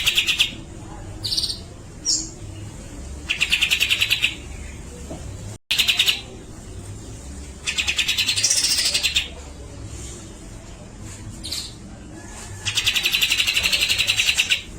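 Grey-cheeked bulbul (cucak jenggot) calling: loud, rapid rattling chatters about one to two seconds long, repeated every few seconds, with short higher whistled notes between them.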